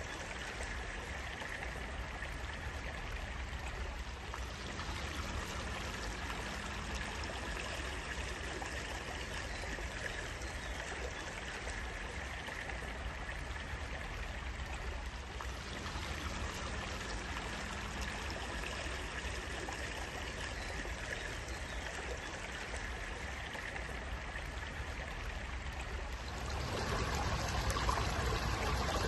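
A small stream of water flowing and trickling steadily, growing a little louder and fuller near the end.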